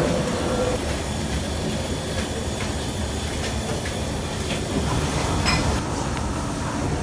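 Steady low rumble of a train, with a few faint clinks over it.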